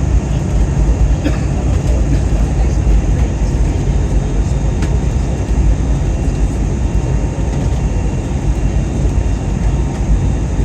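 Steady, loud rumble of engine and airflow noise inside an airliner's cabin in flight.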